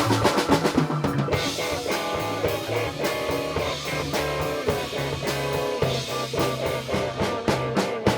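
Live funk band music: a drum kit with many quick hits over a bass line and guitar, the tune driving toward its final phrase.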